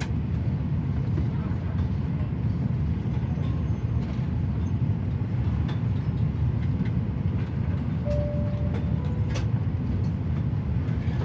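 Steady low rumble of an Airbus A350-1000's cabin, with a few faint clicks and a brief faint tone about eight seconds in.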